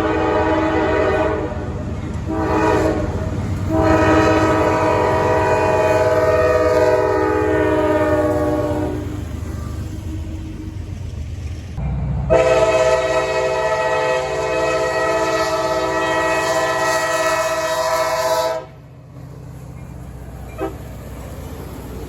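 Freight locomotive air horn sounding a salute: a few short blasts, then a long blast whose pitch sags near its end, and after a pause another long blast that cuts off sharply. A steady low rumble of the passing train runs underneath.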